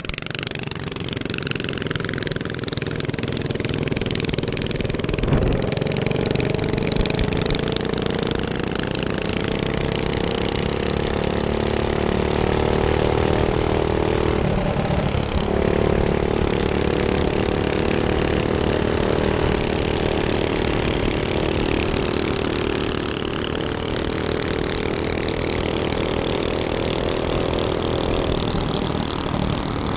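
A minibike's small engine running steadily under way. Its pitch climbs over the first several seconds as it speeds up, then holds fairly even.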